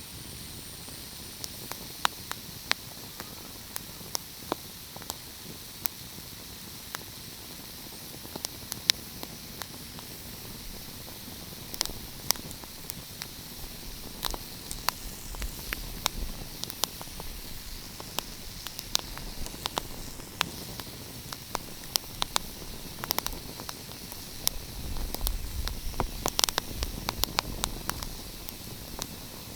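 Fireplace fire crackling: a steady hiss with irregular sharp pops and snaps, and a low rumble that swells twice, around the middle and near the end.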